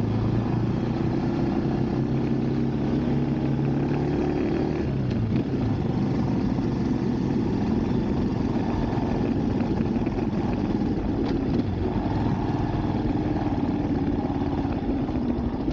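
Motorcycle engine running steadily while riding, its pitch dropping about five seconds in as it slows or shifts, then holding steady again.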